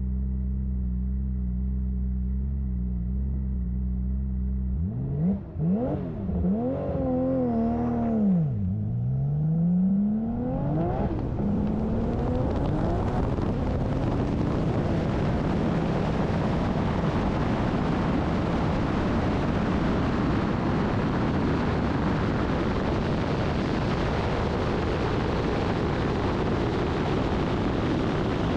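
Race car engine held at steady revs, then launching about five seconds in. The engine pitch climbs and drops through several gear changes, and then a steady roar of engine and wind at high speed takes over.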